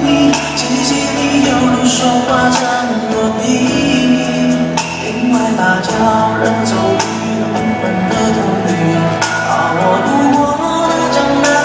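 Mandopop song playing: a singing voice over a steady beat.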